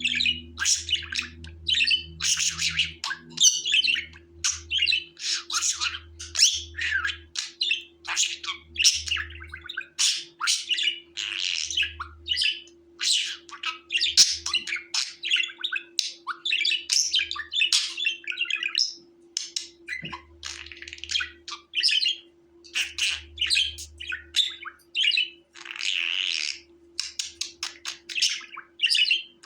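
Budgerigars chattering: a continuous stream of quick warbling chirps and harsher squawks, one after another with hardly a pause.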